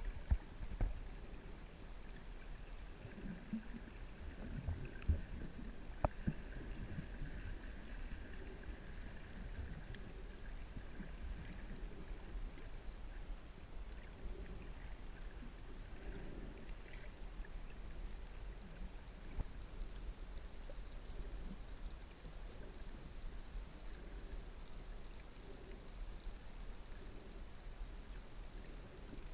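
Shallow seawater sloshing and lapping, under a steady low rumble, with a few sharp knocks in the first six seconds.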